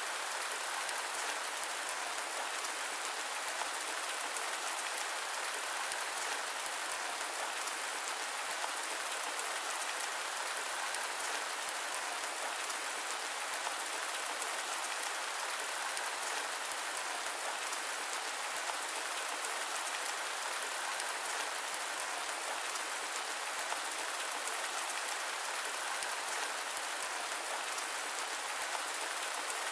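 Steady rain mixed with white noise: an even, unbroken hiss with no thunder or deep rumble.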